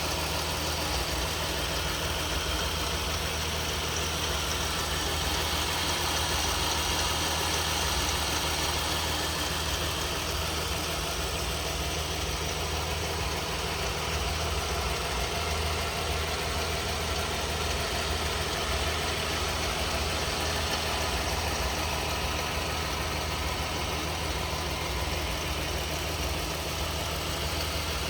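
2021 Ram 1500 pickup truck's engine idling steadily.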